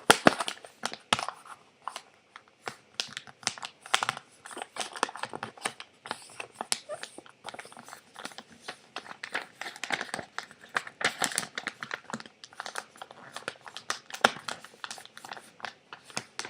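A sheet of paper being folded and creased by hand: irregular rustling and crinkling with many short sharp crackles as the corners are folded into the center and pressed flat.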